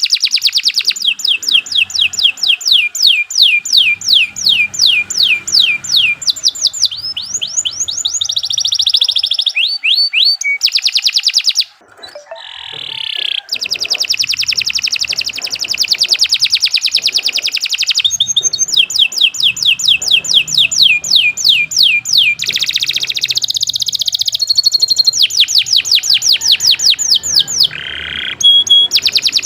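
Domestic canary singing a long, loud, continuous song of fast trills, each trill a run of quickly repeated downward-sweeping notes, with a brief pause about twelve seconds in.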